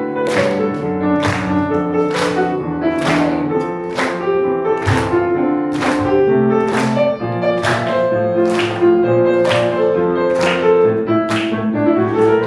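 Piano playing an instrumental interlude: evenly repeated chords, about two or three a second, in a steady driving rhythm.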